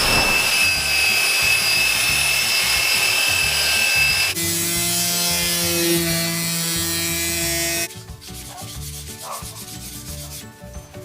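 Sanding a planed wooden board with a sander: a loud, steady abrasive hiss over a steady whine. About four seconds in the sound switches abruptly to a lower-pitched whine, and about eight seconds in it drops much quieter.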